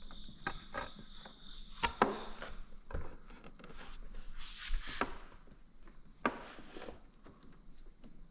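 Handling noises: scattered clicks and knocks with brief rustling, the sharpest knock about two seconds in, under a faint steady high whine.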